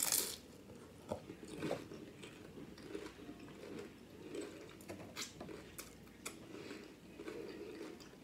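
A person biting into and chewing Flamin' Hot Doritos nacho chips: a crunching bite at the start, the loudest sound, then chewing with scattered small crisp crunches.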